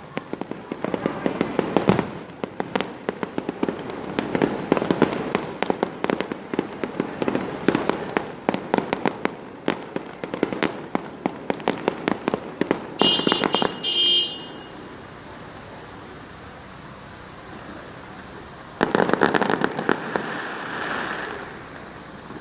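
Fireworks going off: a dense, rapid run of crackling pops for about fourteen seconds, with a short whistle near the end of it. After a quieter stretch, another burst of crackling comes about nineteen seconds in.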